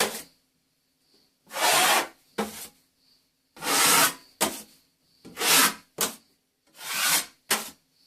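A metal scraper blade drawn across a wall, spreading wet-area base coat compound over a taped plaster join. It makes about five long scraping strokes at a steady pace, each followed by a short second scrape.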